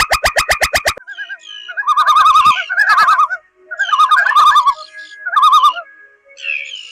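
A bird singing in several warbling phrases of wavering whistled notes, with short pauses between them. For about the first second, a rapid series of pulsed calls, about ten a second, runs on and then stops.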